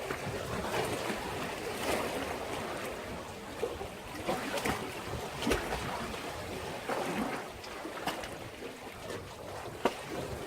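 Sea waves washing against a breakwater, with a steady surf wash and frequent short splashes. Wind rumbles on the microphone.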